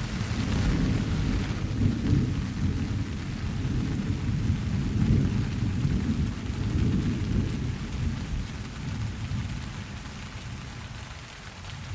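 Rolling thunder over steady rain: a deep rumble begins suddenly, swells twice and fades away near the end, under the even hiss of rainfall.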